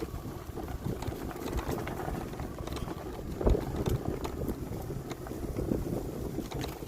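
Wind buffeting the microphone and a low rumble of knobby tyres and suspension over a dirt track while an electric dirt bike is ridden, with scattered knocks and a sharper thump about halfway through.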